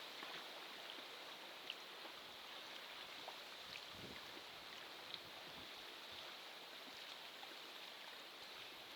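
Faint, steady rushing of wind and water, with a few faint ticks about two, four and five seconds in.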